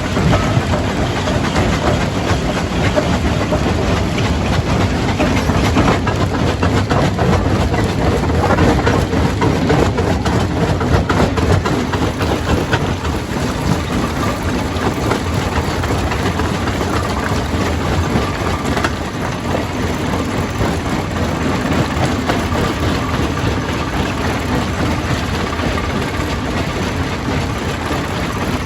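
Jaw crusher running and crushing stone: a steady heavy drone of machinery under a dense, continuous rattle of rock being broken. It is a little louder in the first half and eases slightly after about twelve seconds.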